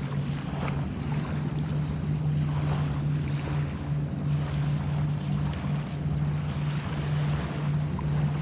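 Bay water washing and lapping, with wind buffeting the microphone, over a steady low hum.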